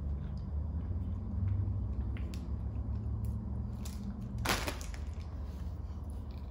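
Quiet chewing of a soft jelly snack with faint mouth clicks, over a steady low hum. A short sharp rustle of a plastic wrapper comes about four and a half seconds in.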